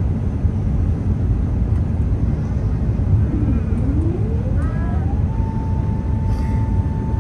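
Airbus A380 cabin noise on approach: a steady low rumble of airflow and engines. About three and a half seconds in, a whine rises in pitch, then holds steady.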